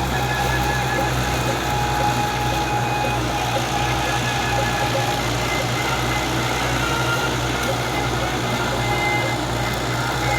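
Belarus tractor engine running steadily while driving a thresher, with a constant low hum and a thin steady whine on top.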